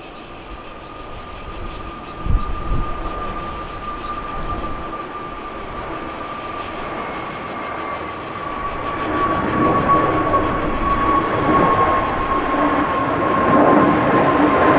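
Jet airliner engines approaching: a steady whine that slowly sinks in pitch, with a rumble that grows louder through the second half. Insects buzz steadily in the background, and there is a short low thump about two seconds in.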